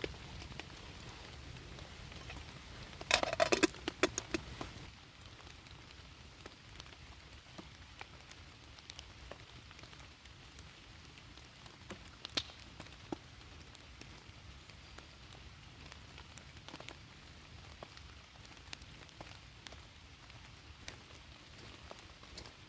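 Steady rain patter with scattered sharp drips. About three seconds in comes a brief burst of loud crackling clicks, after which the patter goes on a little quieter.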